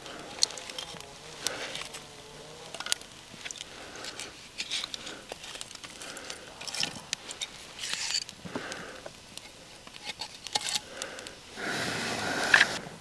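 Scattered small clicks, knocks and scrapes of hands handling kindling and campfire materials, with a louder scraping rush lasting about a second near the end.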